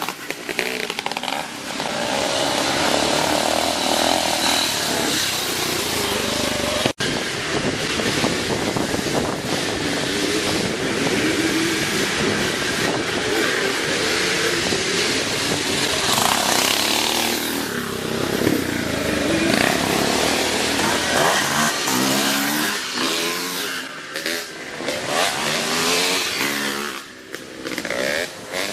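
Classic twinshock motocross motorcycles racing, several engines revving up and falling back with the throttle. There is a brief dropout about seven seconds in.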